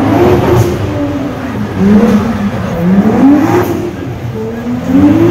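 Car engine revving hard again and again, its pitch climbing with each rev, about four rises.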